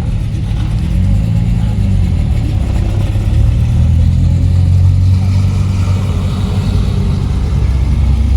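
Vintage car engines running as the cars pass slowly. A low engine note rises and falls about a second in and grows louder from about four seconds on.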